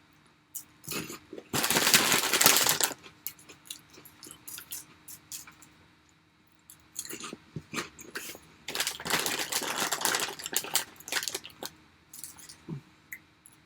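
Food packaging being handled: two stretches of crinkling plastic with scattered clicks and taps of containers between them.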